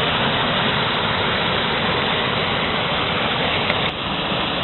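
Waterfall rushing: a steady, loud wash of falling water. A single click about four seconds in, followed by a slight drop in level.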